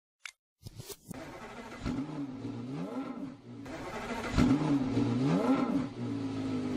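A car engine revving, most likely as a sound effect for an animated title card: its pitch dips and climbs back up twice, each time just after a sharp crack, the second crack about four and a half seconds in being the loudest. A single click comes just before the engine sound starts.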